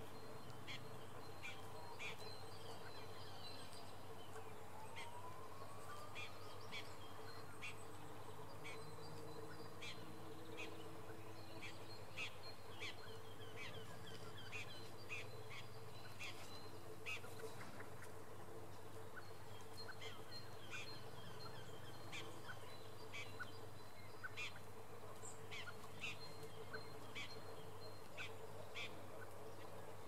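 Birds chirping outdoors, short calls repeating every second or so, over a steady low hum. Two longer rising calls come in the first six seconds.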